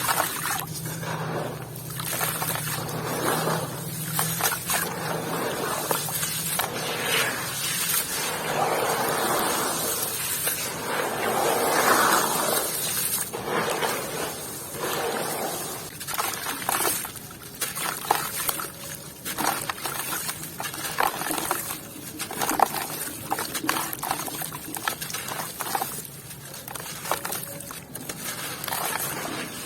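Dry and wet crumbly material being crushed and crumbled, a dense, irregular crunching and crackling that swells loudest about twelve seconds in.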